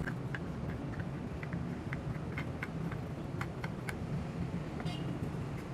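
Plastic parts of a table fan being handled as it is taken apart: scattered light, irregular clicks and ticks over a steady low hum.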